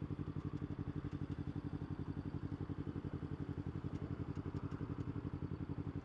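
Kawasaki Ninja 250's parallel-twin engine running steadily, an even, rapid throbbing pulse with no change in pitch.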